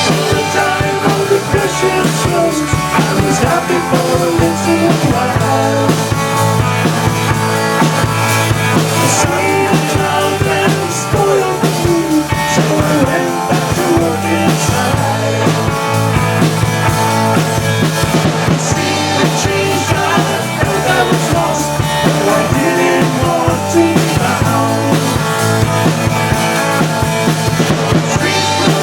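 Rock band playing a jangly original song live, with drum kit and guitars.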